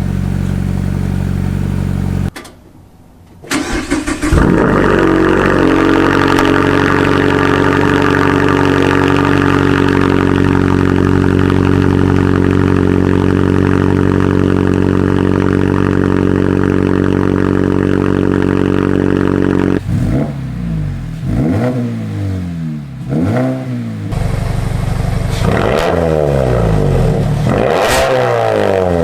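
2017 Mazda 3 GT four-cylinder engine running through a Borla axle-back exhaust with the resonator deleted. It idles, cuts out about two seconds in, restarts about a second later and holds a steady, higher idle. From about two-thirds of the way through it gives a series of quick revs that rise and fall.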